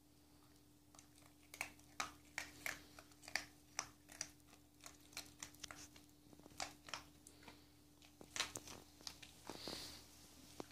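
A dog crunching dry kibble: an irregular string of sharp crunches, starting about a second and a half in.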